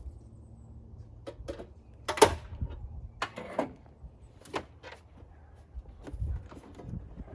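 Aluminium car hood being handled and set in place: a series of sharp knocks and clunks, the loudest about two seconds in.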